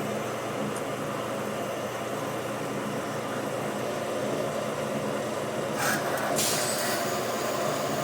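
Automatic CNC lathe running with a steady mechanical hum. About six seconds in come a short hiss and then a longer hiss lasting about half a second.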